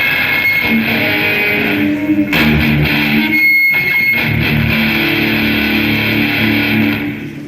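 Electric guitar played through an amplifier, with held notes and chords ringing on and a short break about three and a half seconds in, fading down near the end.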